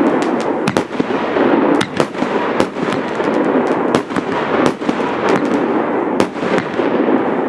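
Aerial fireworks shells bursting in the sky: a rapid, irregular series of sharp bangs over a constant rush of noise.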